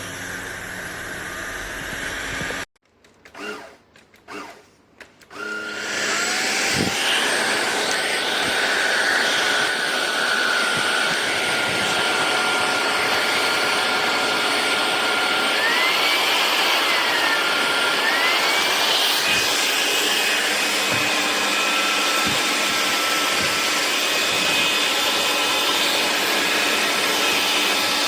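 Ultenic U16 Flex cordless stick vacuum running with a steady whooshing whine. About three seconds in the sound drops out for a couple of seconds, broken only by a few short noises, then the vacuum runs again, louder and steady, with a few brief rising and falling tones above the motor noise.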